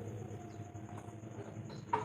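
Quiet pause between spotted dove coo phrases: faint background with a low hum and a steady high-pitched whine, and one short click near the end.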